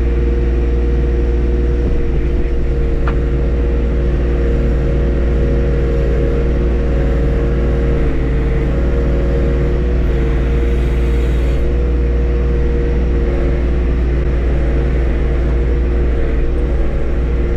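A 2023 John Deere 1025R subcompact tractor's three-cylinder diesel engine running steadily at an even speed, heard close up.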